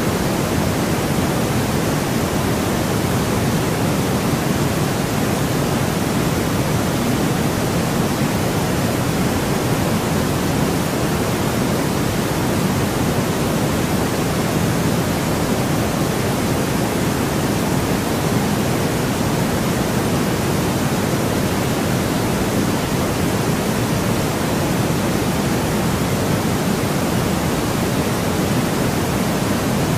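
Continuous white noise: a steady, unchanging hiss, fuller in the low and middle range than in the treble.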